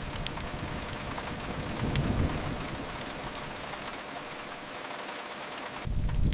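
Steady rain hiss, with a low rumble that swells about two seconds in and fades away, and a few faint crackles of a wood fire. Near the end the low rumble comes back in strongly.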